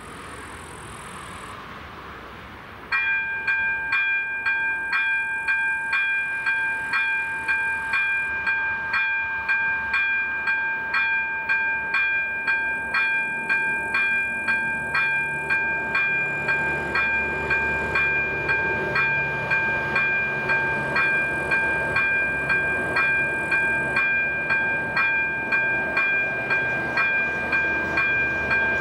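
A ringing alarm tone that starts abruptly about three seconds in and pulses steadily about twice a second, with a low rumble building beneath it in the second half.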